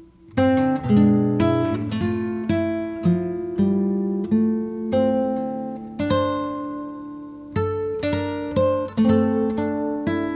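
Background music: an acoustic guitar playing a plucked melody, with a short pause just before a new phrase starts about half a second in.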